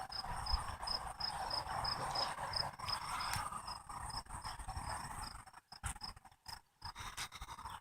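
A cricket chirping steadily, a high pulsed chirp about four times a second, over a faint low rumble.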